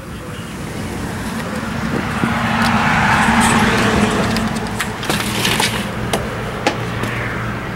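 A motor vehicle going by, its road noise swelling to a peak midway and then easing off over a steady low hum, with a few sharp clicks in the second half.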